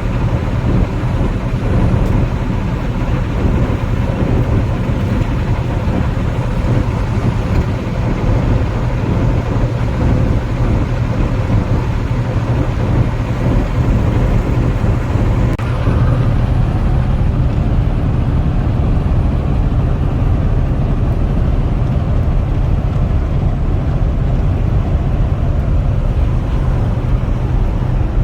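Steady road and engine noise inside a vehicle's cab while driving at highway speed: a continuous low rumble with tyre hiss over it.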